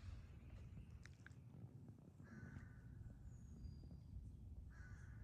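Two harsh bird calls, each about half a second long, one about two seconds in and one near the end, with a few faint high chirps between them over a low rumble.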